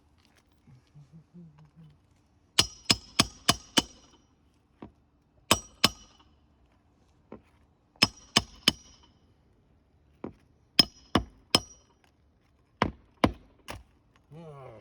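Hammer driving roofing nails through asphalt shingles: sharp ringing metal-on-metal strikes in quick runs of two to five, starting a couple of seconds in.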